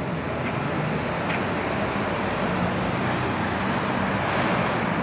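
Cars moving slowly in traffic: a steady hum of idling engines mixed with road noise.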